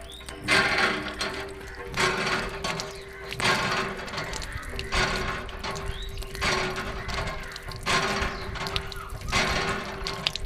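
A small mechanism running with a steady hum, with a noisy rush repeating about every one and a half seconds.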